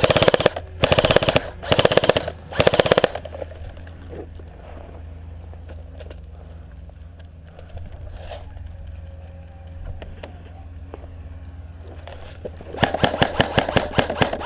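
Classic Army SCAR-L airsoft electric gun firing on full auto: rapid clatter of shots in several short bursts during the first three seconds, then a long continuous burst starting near the end.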